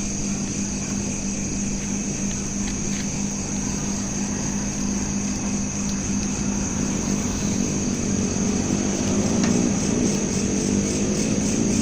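Crickets chirping in a steady high trill over a steady low hum. About two-thirds of the way through, a motor vehicle's engine comes in, rising in pitch and growing louder.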